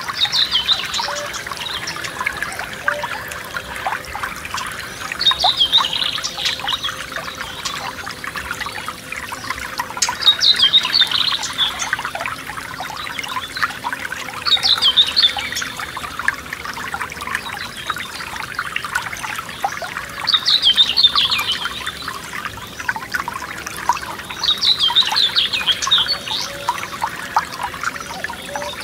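Forest stream trickling and babbling over stones, steady throughout, with a songbird repeating a short, bright song phrase about every four to five seconds.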